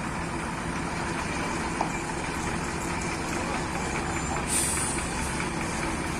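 Diesel engine of a heavy construction machine running steadily, with a brief hiss about four and a half seconds in.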